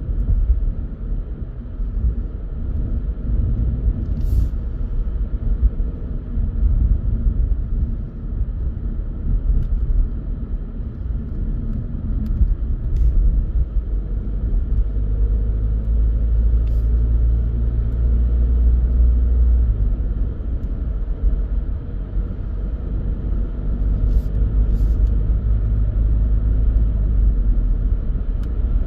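Car driving on a country road: steady low rumble of engine and tyre noise, with a deeper drone swelling in twice, around the middle and again near the end, and a few faint clicks.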